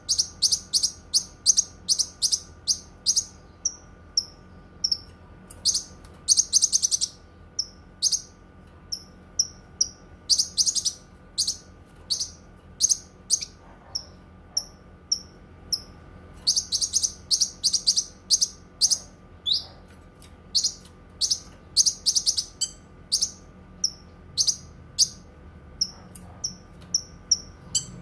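Cucak kinoi songbird singing: a long run of short, sharp, high chirps, broken by several fast rattling trills, over a faint steady hum.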